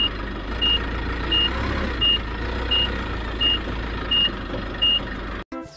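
Forklift warning beeper sounding eight short, high beeps of one pitch, about 0.7 seconds apart, over the machine's steady low rumble; the sound cuts off just before the end.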